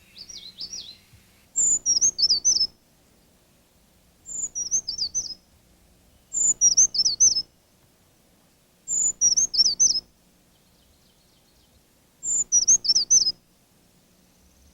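A songbird singing the same short song five times, about every two and a half seconds. Each song opens with a high note and runs into a quick string of slurred, rising-and-falling notes.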